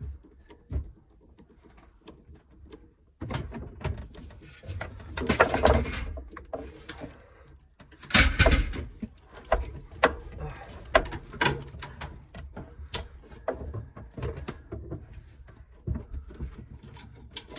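Irregular knocks, clicks and rattles from hands-on repair work with tools and parts, with two louder bursts of clatter about five and eight seconds in.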